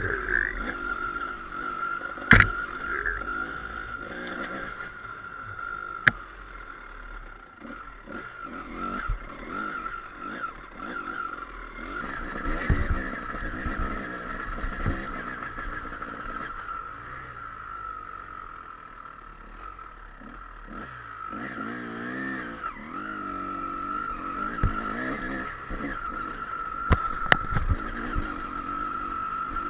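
Trail dirt bike's engine running and revving up and down as it rides, with a steady high whine throughout and a few sharp knocks, a couple of them near the end.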